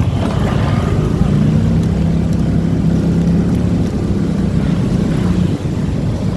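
Motorcycle engine running steadily while riding, with a low hum over road and wind noise.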